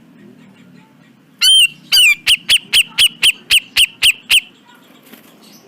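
Cucak jenggot (grey-cheeked bulbul) calling: two longer notes, then a quick, loud run of about nine short notes at roughly four a second, which stops a little over halfway through.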